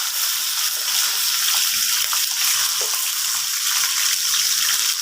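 Frozen liver strips frying in very hot ghee and oil on high heat, a steady hissing sizzle.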